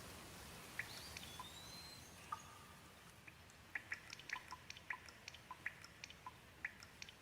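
Gentle rain: a faint steady hiss with scattered single drops dripping and plinking, the drops coming thicker and faster after about three and a half seconds.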